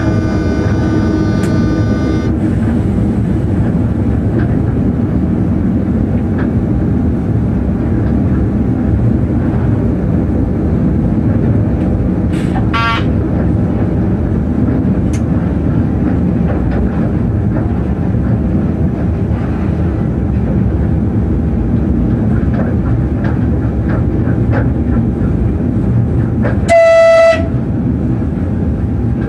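Class 363 electric locomotive running, heard from inside its driver's cab: a steady rumble of wheels and running gear on the track, with a high whine that stops a couple of seconds in and a short faint tone about halfway. Near the end the locomotive's horn sounds once, loudly, for about half a second, as a warning on approaching a level crossing.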